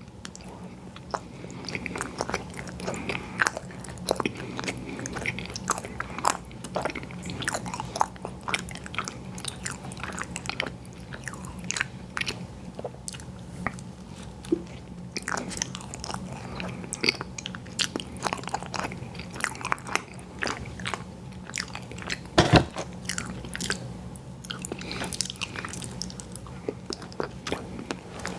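Close-miked chewing and biting of sweets, with many small crisp crunches and mouth clicks and one louder crunch late on, over a steady low hum.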